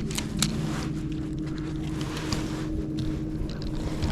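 A steady low mechanical hum, like a motor running, with scattered short clicks and splashes over it.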